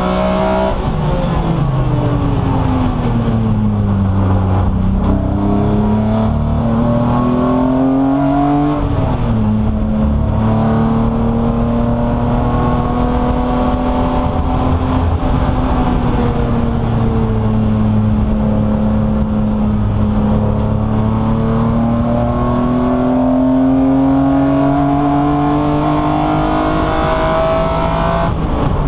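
BMW E36 M3's straight-six racing engine heard from inside the cabin, running hard under load. Its pitch falls over the first few seconds, climbs, drops sharply at a gear change about nine seconds in, then holds nearly level and slowly rises toward the end.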